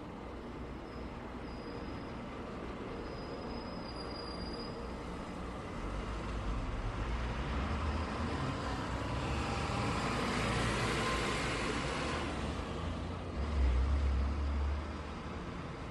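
Road traffic: a steady hiss of passing vehicles, with one vehicle swelling up and passing by in the middle. Near the end comes a brief, louder deep rumble.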